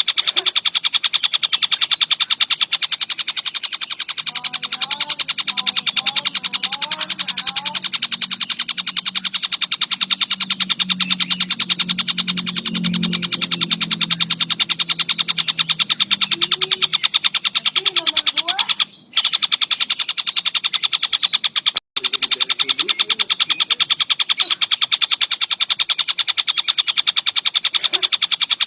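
Collared kingfisher (tengkek buto) calling in a fast, unbroken run of harsh, rapidly repeated notes. There are two brief breaks past the middle.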